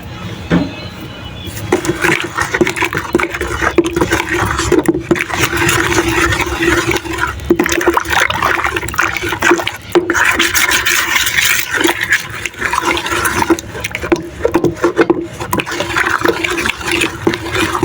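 Liquid sloshing and churning in a container: lime-and-water whitewash being stirred, in quick irregular strokes that start about a second and a half in.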